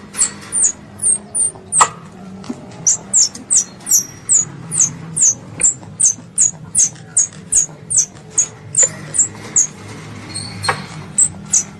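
Young squirrel calling for its mother: a rapid, steady series of short, high-pitched chirps, each falling in pitch, about three a second, with a few sharper clicks among them.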